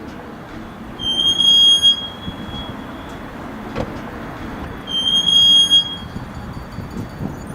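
Squeaky wheel giving a high, steady squeal twice, first for about two seconds and then for about a second, coming back roughly every four seconds over a low rumble.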